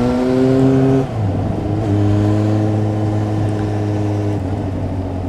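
Honda CB400 Super Four's inline-four engine running at a steady speed. The note breaks and dips briefly about a second in, then holds steady again.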